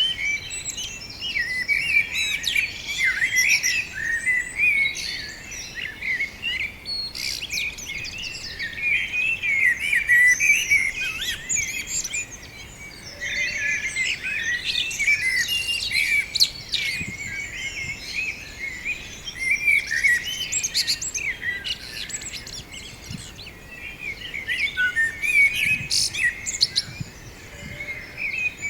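Many small birds chirping and twittering from a tree, their quick calls overlapping in a dense chorus that eases off briefly twice before picking up again.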